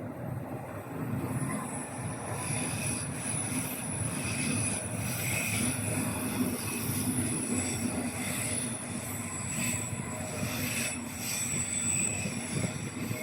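A train running past, with a steady rumble of wheels on the rails and a thin high-pitched wheel squeal held over it.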